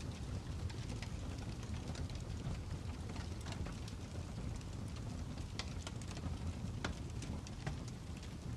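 Fire crackling: irregular sharp pops and snaps, a few a second, over a steady low rumble.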